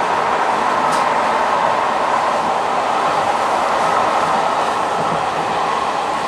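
Train running steadily along the track, an even, unbroken noise of wheels on rails. A single light click about a second in.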